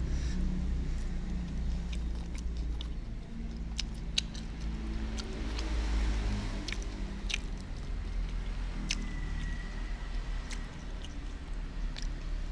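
Close-up chewing and sharp mouth clicks of someone eating, over a low steady rumble that drops away about halfway through.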